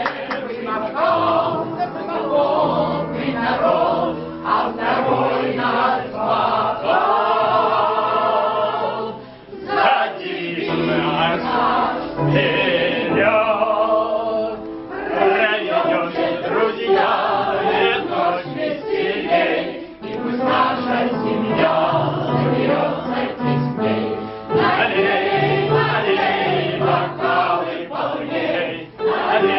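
A group of voices singing a song together in chorus, with short breaks between phrases.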